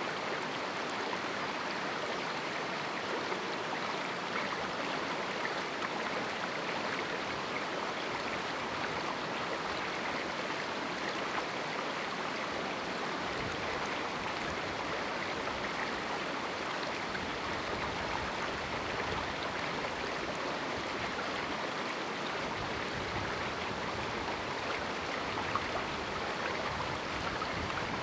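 A river flowing through a small canyon: steady rushing of water over rocks.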